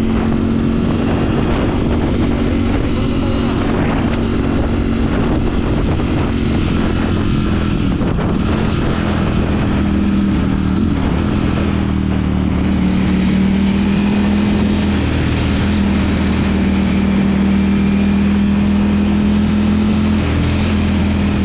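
Motorcycle engine running at a steady pace, its pitch shifting down and back up a few times as the speed changes.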